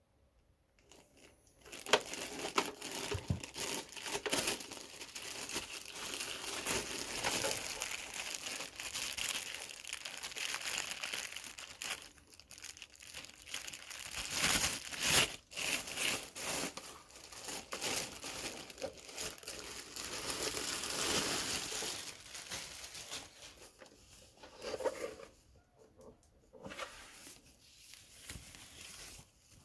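Packaging crinkling and rustling as it is handled and pulled off during an unboxing, with a few tearing sounds. The sound is dense and continuous for most of the time and becomes sparser near the end.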